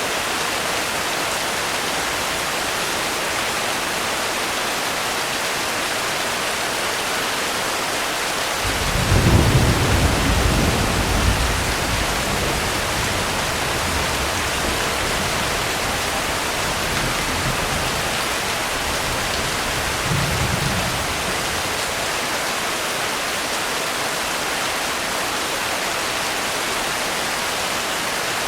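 Steady heavy rain hiss. About a third of the way in, a roll of thunder breaks in with a deep rumble, swells for a few seconds, and rolls on more softly, with a second smaller rumble a little past two-thirds of the way through.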